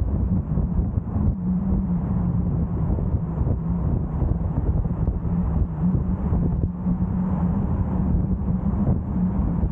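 A car driving along a road: steady engine drone and tyre noise, with a constant low hum and some wind.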